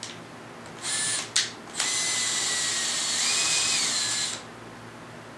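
Power drill-driver driving a fastener into the tabletop frame: a short trigger pull, then a steady run of about two and a half seconds. The motor whine steps up in pitch for a moment before dropping back and stopping.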